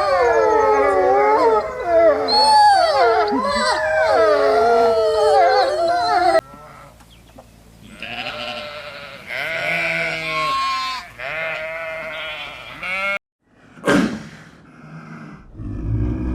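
A run of separate animal calls with abrupt cuts between them. First several overlapping calls glide up and down for about six seconds. Then comes a quieter series of short repeated calls, a sudden gap and one brief sharp call, and a low rumbling call starts near the end.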